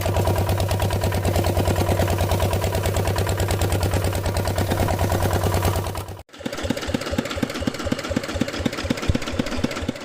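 Tractor-type engine running with a steady, fast pulsing beat. About six seconds in it cuts off abruptly, and a rougher, more uneven chugging engine sound takes over.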